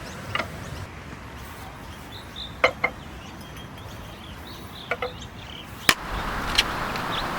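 A few sharp, ringing clicks and clinks, single and in pairs, with faint bird chirps in the background. A steady hiss swells up in the last second or so.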